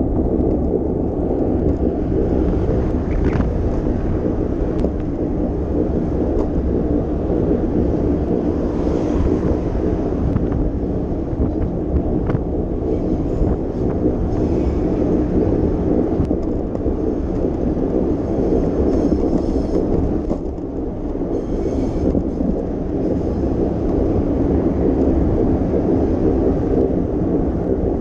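Steady low rumble of wind buffeting the microphone and tyre noise from a moving bicycle, with faint passing street sounds now and then.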